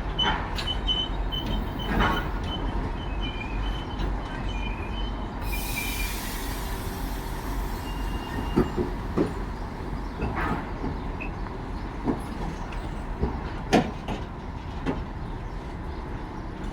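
Passenger train arriving slowly at a platform: coaches rolling with irregular wheel knocks and a faint thin brake squeal early on, and a burst of air hiss about six seconds in.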